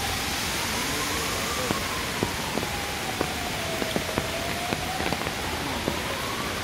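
Steady rain with scattered sharp drops tapping close by. A siren is heard under it, rising and falling slowly in pitch.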